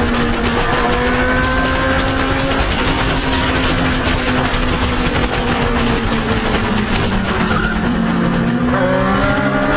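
Motorcycle engine running at a steady cruising speed, with wind rushing over the microphone. The engine note shifts slightly near the end.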